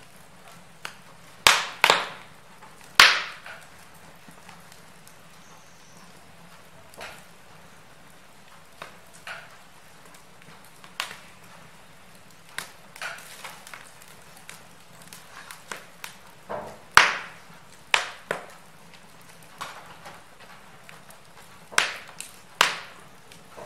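Wood fire crackling in a fireplace: irregular sharp pops and snaps of varying loudness over a faint steady background. The strongest pops come in small clusters a couple of seconds in, around the middle, and near the end.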